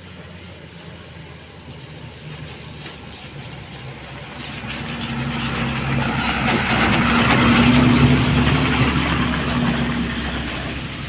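Water tanker truck spraying water onto a dusty road as it passes: its engine running under a hissing spray, growing louder from about four seconds in, loudest near eight seconds, then fading.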